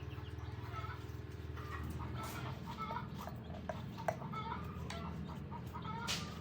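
Chickens clucking, short repeated calls, over a steady low hum, with a couple of sharp clicks in the second half.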